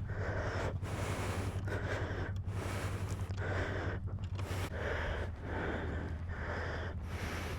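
Heavy, rapid breathing close to the microphone, a rush of air about every second, over a steady low hum.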